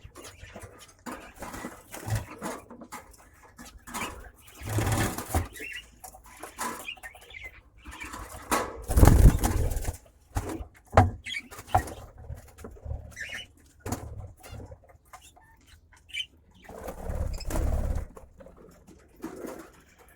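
Small pet birds flapping their wings in three short bursts, with scattered clicks and a few brief chirps.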